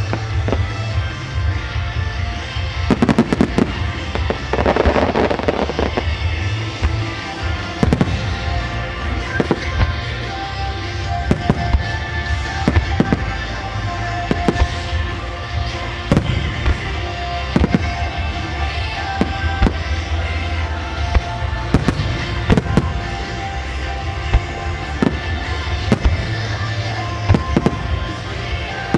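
Starmine fireworks barrage: shells bursting in quick, irregular succession, with a dense stretch of crackling about three to six seconds in. Music plays under the bursts throughout.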